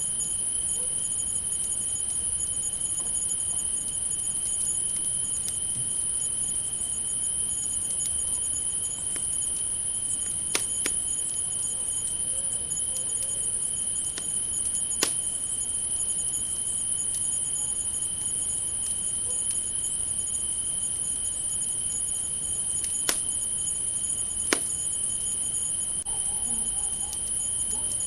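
Crickets trilling without a break, a very high steady trill with a lower steady one beneath it. A campfire crackles underneath and gives about four sharp pops, spaced several seconds apart.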